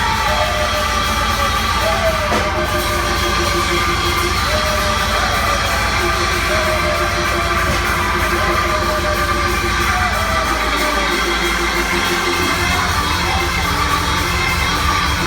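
Loud live church praise music with sustained chords, with members of the congregation yelling and whooping in praise over it.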